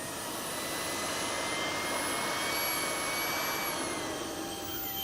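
Electric ducted-fan model jet (an A-4 replica) running: a high-pitched whine over a rushing sound. Its tones climb a little, then drop in pitch about four seconds in.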